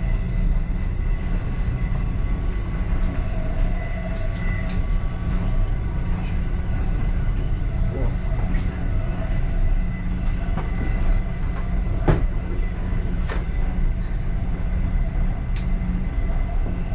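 Passenger train car rolling along the track, heard from inside the last car: a steady deep rumble with faint tones above it, and now and then a sharp click or knock, the strongest about twelve seconds in.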